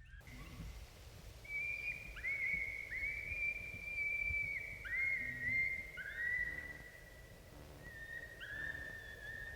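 Several coyote howls overlapping, each sliding up to a long held high note and then dropping away, one after another.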